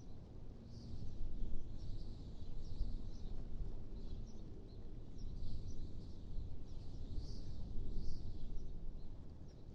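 Wind blowing steadily as a low rumble that swells and eases in gusts, with small birds chirping high and briefly throughout.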